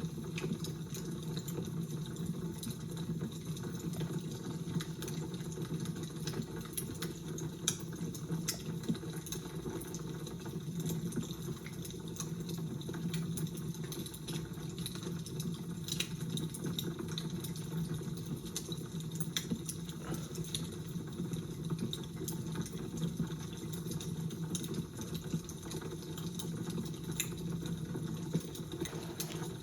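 Fire crackling: a steady low rushing with irregular sharp crackles and pops scattered throughout.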